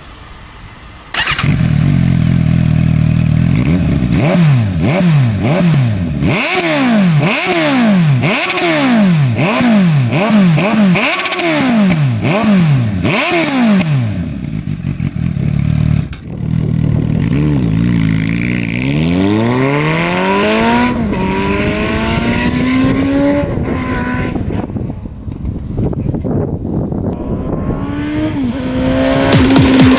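Suzuki GSX-S750's inline-four engine heard through its exhaust. It comes in loud about a second in and is blipped up and down about ten times in quick succession, then pulled up through the revs in a longer rising sweep and let fall again.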